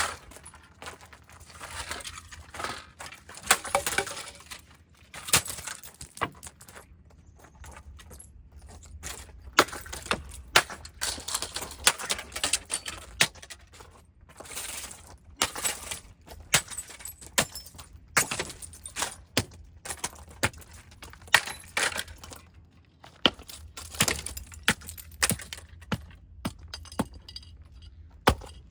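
A robot vacuum being smashed and broken apart: repeated irregular knocks and cracks, with loose broken pieces and shards clinking and rattling between the blows.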